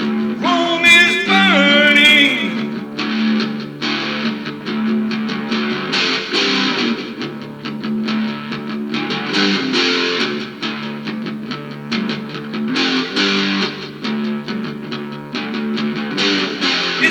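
Instrumental break of a rock song: guitars play a steady sustained part over a regular beat, with a high sliding melodic line in the first two seconds.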